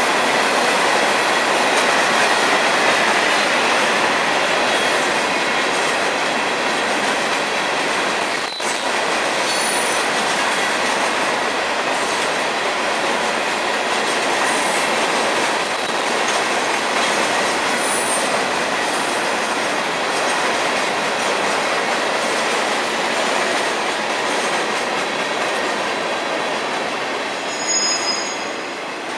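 Florida East Coast Railway freight train rolling past, open hopper cars and then trailers on flatcars: a steady rush of steel wheels on rail, with a brief dip about eight seconds in.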